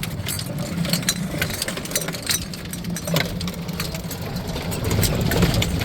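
A small engine running steadily at idle, with scattered clicks and knocks over it.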